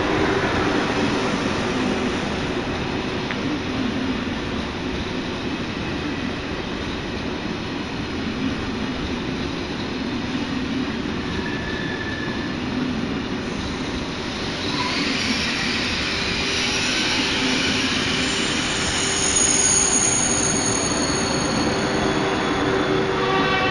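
Thalys high-speed trainset rolling past along the platform, its wheels on the rails giving a steady rumble. From about fifteen seconds in, high-pitched wheel squeal rises and grows stronger towards the end as the last cars and the rear power car go by.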